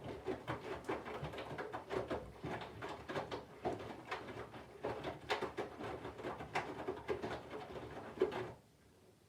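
Candy front-loading washing machine drum turning slowly with the laundry load, the clothes tumbling and knocking with a low motor hum and water sloshing, then stopping abruptly near the end as the drum pauses between turns.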